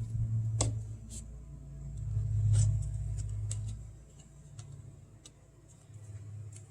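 Handling noise from crafting at a table while googly eyes are glued on: low rumbling swells and a few faint, scattered clicks and taps.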